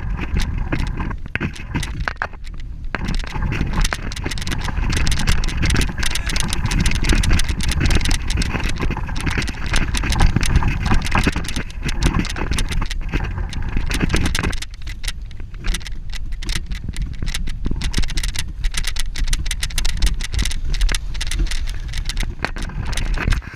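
A bicycle being ridden over rough ground, with a steady rumble of wind on the microphone and a constant clatter of small rattles and knocks. It eases off briefly a little past the middle.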